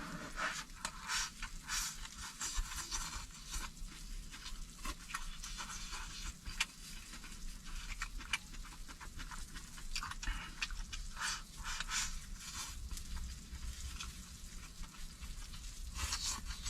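Pot of boiled sliced pork bubbling hard on a charcoal stove, with a steady run of irregular small pops and crackles.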